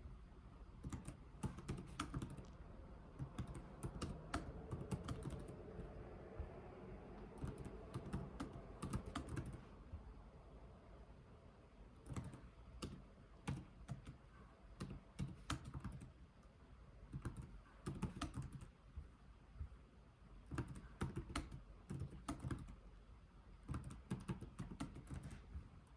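Slow typing on a computer keyboard: runs of key clicks with short pauses between them.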